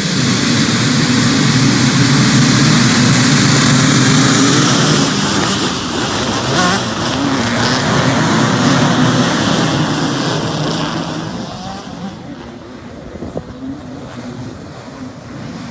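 Two-stroke motocross bike engines running hard, a loud continuous roar that eases off about eleven seconds in, leaving quieter scattered revs.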